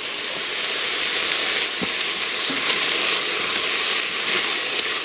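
Diced carrots and celery sizzling steadily in hot olive oil in the stainless inner pot of a Cosori electric pressure cooker on its sauté setting, with a couple of faint ticks about two seconds in.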